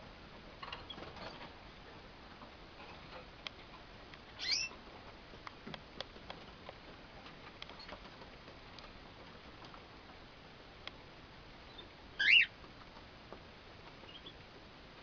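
Young cockatiels giving two short, high, falling calls, one about four seconds in and a louder one near the end, with scattered light ticks and taps between them.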